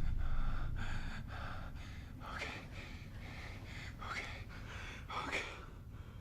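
A man's rapid, frightened panting, then three sharp gasps, over a low rumble that fades out in the first two seconds.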